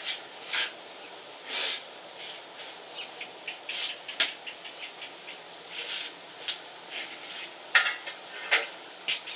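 Handling noises as a bicycle and its cover are moved about: irregular rustling with scattered sharp clicks and knocks, the loudest click near the end.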